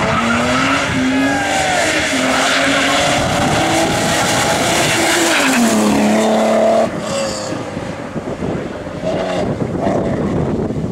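Rally car engine revving hard under acceleration, its pitch climbing and stepping back through gear changes. The sound drops off sharply about seven seconds in as the car gets away.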